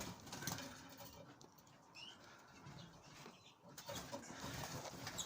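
Caged finches chirping faintly now and then, with light wing fluttering and rustling in the cage.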